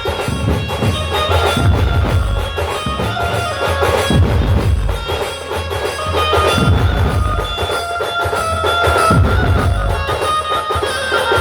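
Dhumal band music: heavy, repeated bass drum beats under held melodic lines from the lead instruments, played loud.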